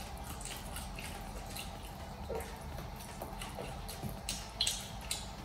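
Close-miked chewing of a hotdog sausage: small wet mouth clicks and smacks, a few louder near the end.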